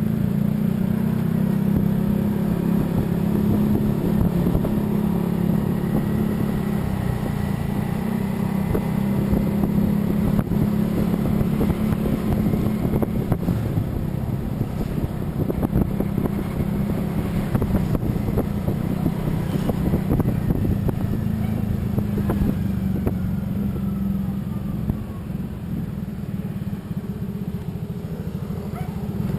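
Motor vehicle running steadily along a road, its engine hum continuous, with scattered clicks and rattles.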